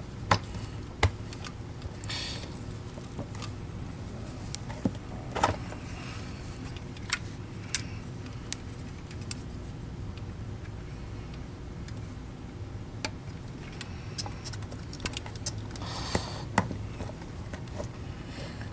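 Scattered clicks and knocks of parts being handled as a small fan motor is fitted into a TriStar canister vacuum's housing, over a steady low hum.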